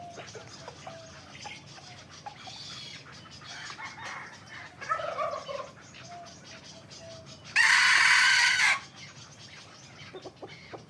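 Young hybrid Indian junglefowl cockerels calling: a few softer calls, then one loud, harsh crow a little over a second long about eight seconds in.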